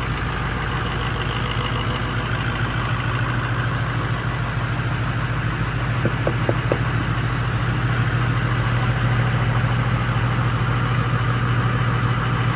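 6.0 Powerstroke V8 turbo-diesel idling steadily, a cold engine being left to warm up. A few short clicks sound about six seconds in.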